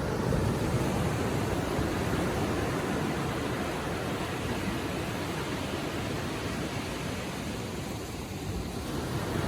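Gentle ocean waves washing on the shore, a steady surf hiss that eases a little near the end and then swells again.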